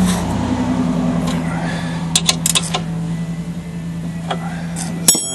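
Metal tools and parts clinking a few sharp times, about two seconds in and again near the end, over a steady low hum.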